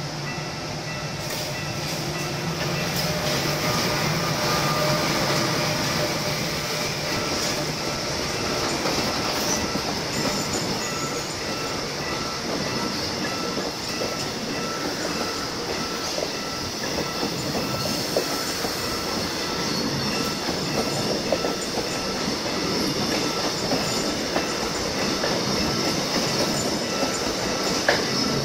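Train rolling slowly over a level crossing, its wheels clacking over rail joints and squealing. A repeating warning tone from the crossing signal rings over the train noise.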